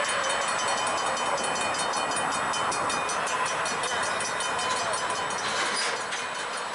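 Union Pacific local freight train moving slowly, a steady rolling rail noise with faint thin wheel squeals, easing off near the end.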